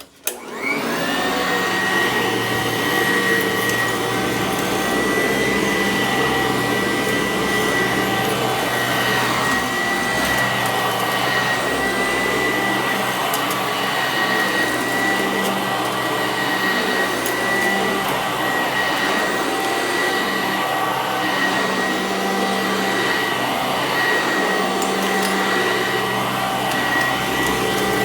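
Sanitaire SC886 commercial upright vacuum switched on, its motor whine climbing to speed within the first second, then running steadily.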